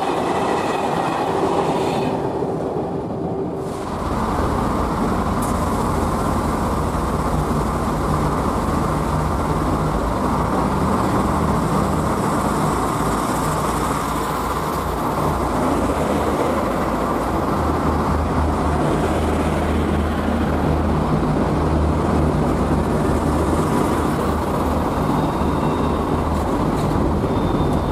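Locomotive-hauled Corail passenger coaches rolling past. About four seconds in this cuts to a French TER regional multiple unit running slowly alongside a station platform, with a steady low drone from its motors.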